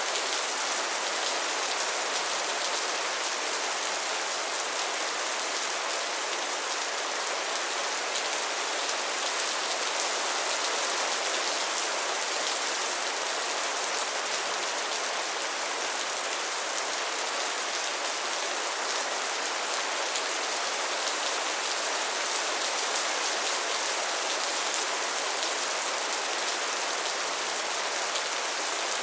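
Steady rainfall, a dense even patter of drops on a surface with no breaks.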